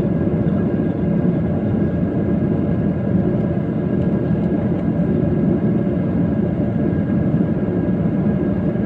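Airplane engines running steadily: a constant low rumble with a few faint steady tones above it.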